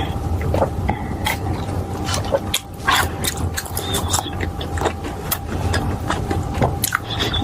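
Close-miked eating: irregular crunches and wet mouth clicks from chewing fried food, over a steady low hum.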